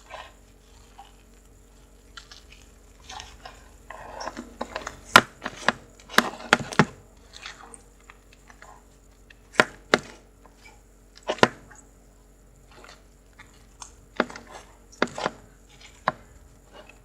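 Bubbly slime being squeezed and poked by hand, giving scattered sharp pops and squelches as its trapped air bubbles burst. A dense run of crackles comes about four to seven seconds in.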